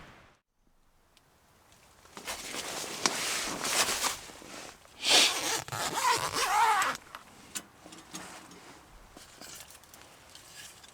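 Rustling and scraping handling sounds, loudest for about two seconds midway, then faint scattered ticks.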